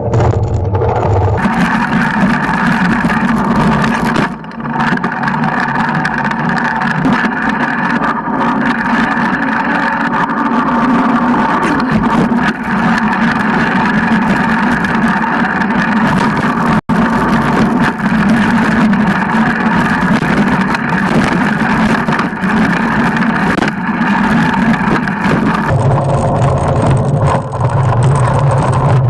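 Freeride mountain bike being ridden with its RST Storm 180 mm suspension fork, recorded raw by a GoPro: a steady rolling and wind noise with a constant hum. A brief sharp dropout comes about 17 seconds in, and the tone of the noise changes near the start and near the end.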